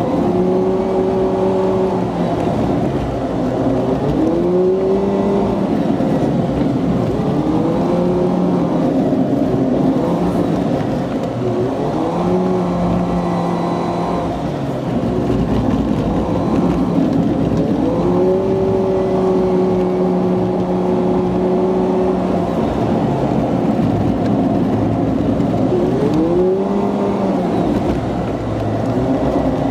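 Car engine running under load on an uphill climb, heard from inside the car. Its pitch rises, holds and falls back several times as the revs change.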